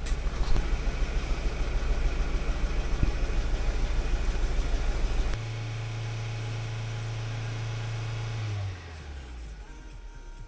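Toyota Camry 2.2-liter 5S-FE four-cylinder engine running. About halfway through the sound changes abruptly to a steadier hum, which drops in pitch and level near the end.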